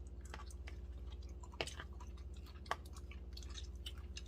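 Close-up chewing and mouth sounds of someone eating smoked chicken: many small wet clicks, with two sharper clicks a little over a second apart, over a steady low hum.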